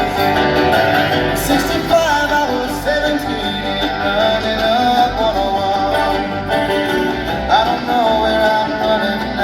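Live bluegrass band playing loudly: picked acoustic guitar and other string instruments over bass, with a singing or sliding melody line on top.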